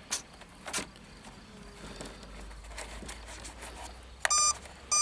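RC radio transmitter beeping as its timer is being set: two short electronic beeps near the end, after a couple of faint clicks.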